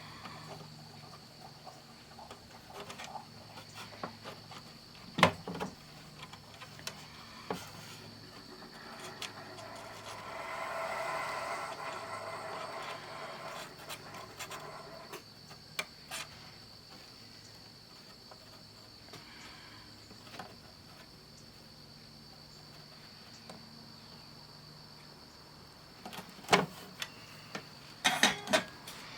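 Small tools and parts being handled on a workbench: scattered sharp clicks and knocks, a cluster of them near the end. A soft whirring swell rises and fades in the middle. A faint high steady whine sits underneath.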